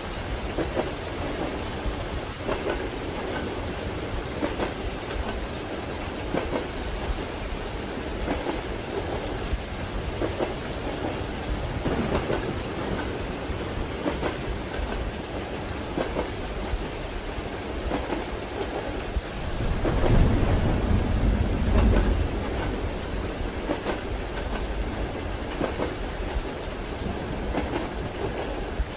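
Steady rain with a low roll of thunder that swells and fades about two-thirds of the way through.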